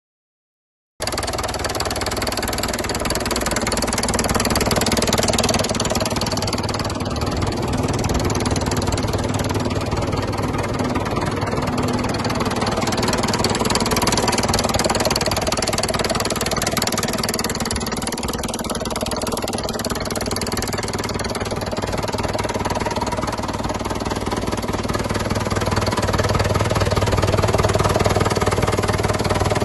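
Fordson Super Major tractor's four-cylinder diesel engine running steadily, already running when it cuts in abruptly about a second in.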